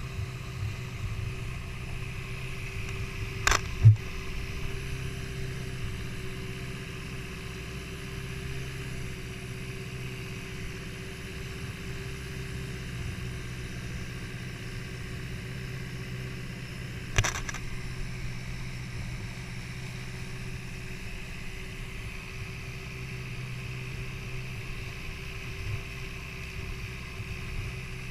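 Boat engine running at a steady hum, with two sharp knocks, one a few seconds in (the loudest moment) and another about halfway through.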